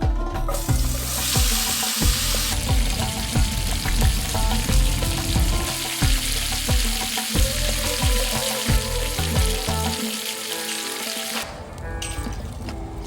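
Ribeye steak sizzling on a hot iron griddle plate. The sizzle starts about half a second in, is loudest over the next couple of seconds, and stops near the end, with background music underneath.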